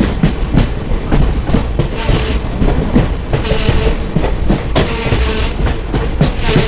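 Moving passenger train: a steady heavy rumble with the wheels clattering over rail joints in irregular knocks.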